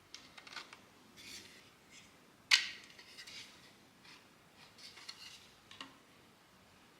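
3D-printed plastic parts clicking and rubbing as they are handled and fitted together, with one sharp snap about two and a half seconds in.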